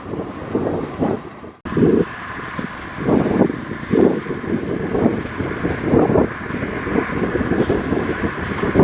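Heavy diesel earthmoving machinery running, its engine note surging unevenly, with wind buffeting the microphone. The sound breaks off abruptly about one and a half seconds in and starts again straight away.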